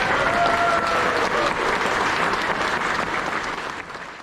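Audience applauding, with a faint voice among the crowd at the start; the clapping dies away near the end.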